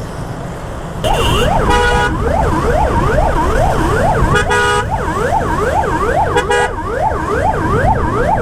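An emergency-vehicle siren in city traffic, starting about a second in and wailing rapidly up and down about twice a second. Vehicle horns honk three times over it, with steady road and engine rumble underneath.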